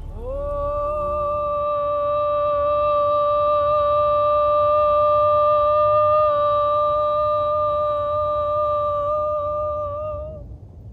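A voice chanting one long held note that slides up into pitch at the start. It holds steady for about ten seconds with a slight waver, then stops just before the end.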